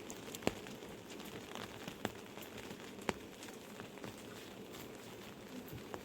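Steady rain falling, with single heavier drops striking a surface in scattered sharp taps, the loudest about half a second in.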